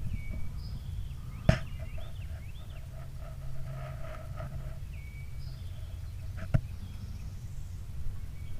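Songbirds chirping and calling, short whistled and falling notes repeating, over a steady low rumble. Two sharp clicks stand out, one about a second and a half in and another about six and a half seconds in.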